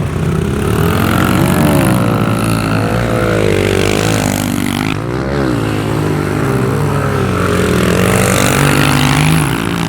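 Small motorcycle engines, dirt bikes or pit bikes, revving up and down repeatedly, with more than one engine running at once.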